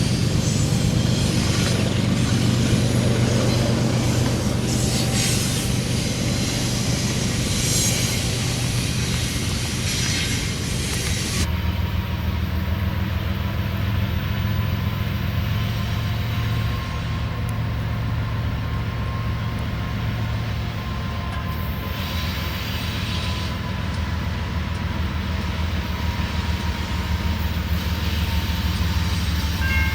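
Train rolling by: the steady low hum of diesel locomotive engines over the rumble of railcars on the rails. The sound changes abruptly a little over a third of the way in.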